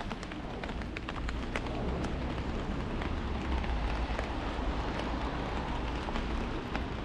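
Heavy rain pattering on an umbrella, with many sharp individual drop ticks over a steady hiss, and a low rumble underneath that swells a little in the middle.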